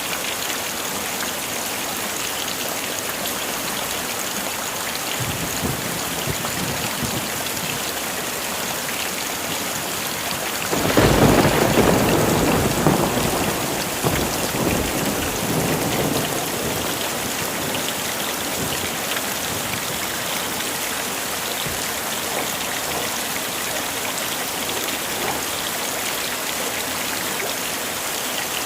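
Steady heavy rain. About eleven seconds in a clap of thunder breaks out and rumbles on for several seconds before fading back under the rain.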